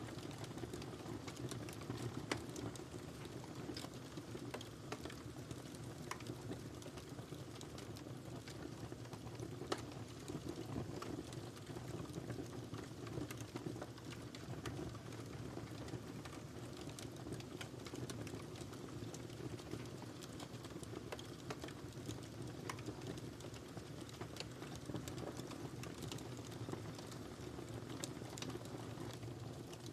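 Wood fire burning in a fireplace: a steady low rumble of flames with irregular crackles and pops scattered throughout.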